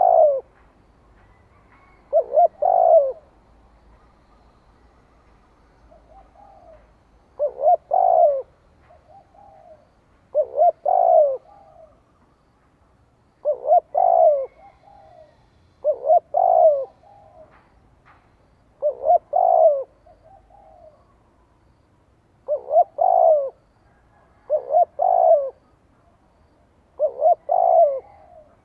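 Spotted dove cooing: short phrases of a few low, hooting notes, repeated about every two to three seconds, with softer single coos between them. This is a decoy dove's challenge cooing, used to draw wild doves in.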